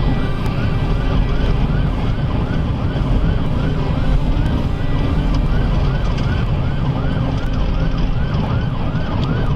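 Police car siren in a fast yelp, about three rising-and-falling sweeps a second, heard from inside the pursuing patrol car over loud engine and road rumble at high speed.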